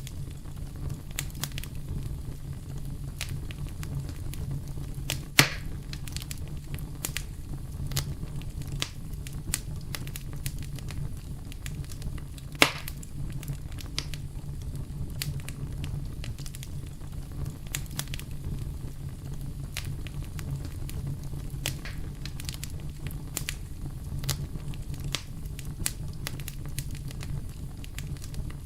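Wood campfire crackling steadily over a low, even rumble, with frequent small snaps and two much louder pops about five and twelve seconds in.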